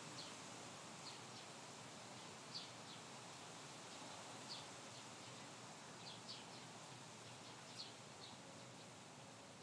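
Small bird chirping faintly: short, high single chirps at irregular intervals of a second or two, over a steady hiss.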